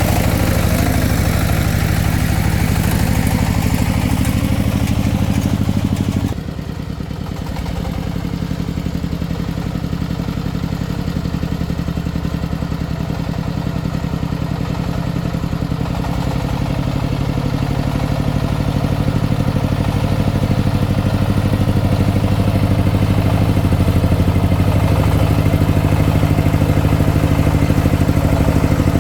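Engine of a công nông farm vehicle running steadily. About six seconds in the sound drops suddenly, then slowly builds back up.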